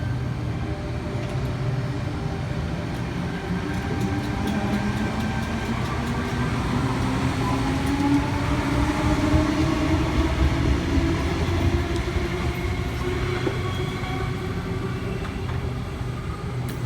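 Tangara electric train pulling out of the platform, its traction motors whining in several tones that rise slowly in pitch as it gathers speed, over a steady rumble of wheels on the rails.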